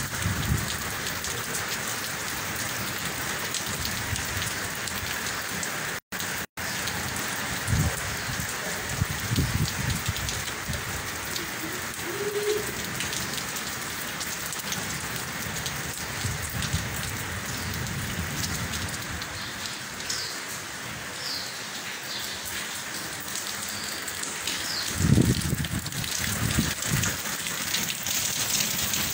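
Steady heavy rain falling and pattering on surfaces, with a few low rumbling swells, the strongest near the end. The sound drops out twice for a split second about six seconds in.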